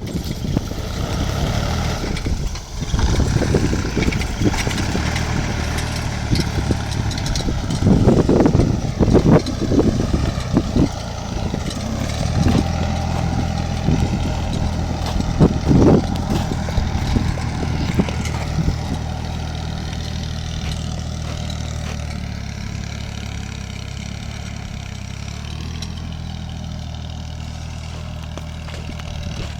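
Mini tractor engine running steadily, with several loud knocks and rattles a third of the way in and again about halfway.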